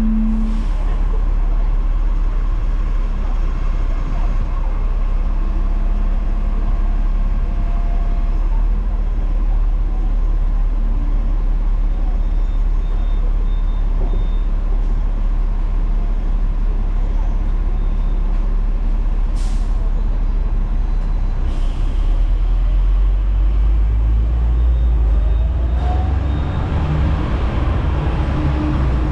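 Hong Kong double-decker tram running with a steady low rumble, with two short bursts of air hiss a few seconds past the middle. Near the end a rising motor whine sets in as the tram gathers speed.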